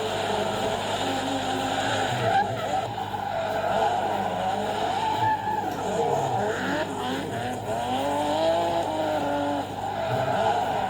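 Racing video game sound: a car engine whose pitch keeps rising and falling as it revs, with tyre squeal from drifting.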